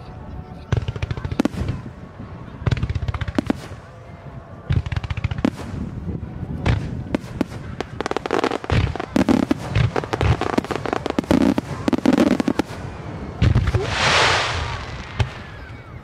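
Starmine fireworks display: rapid volleys of shell launches and bursting reports, cracking in quick clusters, with a drawn-out hiss near the end.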